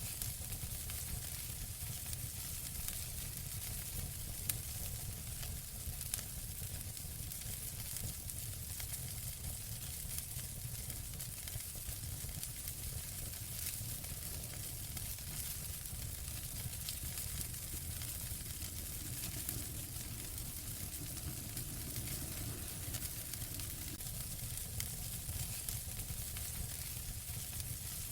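Wood fire in a fireplace burning with a steady crackling hiss and scattered sharp pops.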